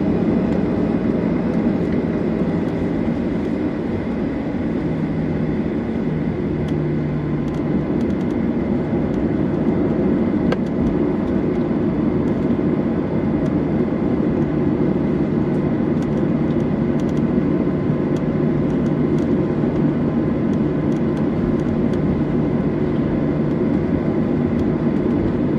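Steady engine and airflow noise inside the cabin of a Boeing 737-800 with CFM56-7B turbofans. A low hum steps down slightly in pitch about six seconds in.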